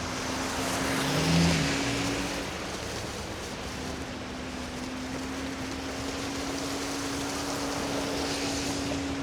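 VMAX VX2 Hub electric scooter riding uphill through snow: a steady rushing noise of wind and tyres over one steady low hum, with a brief swell about a second in. The scooter is working against the snow's drag on the climb.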